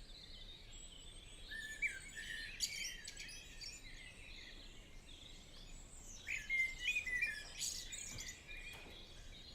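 Several small birds singing and calling: quick chirps and trills, busiest about two seconds in and again from about six seconds, over a faint outdoor hiss.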